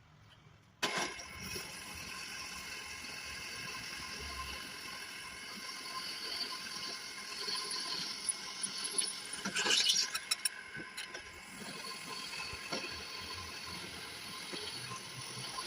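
Construction machinery running steadily, starting abruptly just under a second in, with scattered metallic clicks and clatter, busiest about ten seconds in.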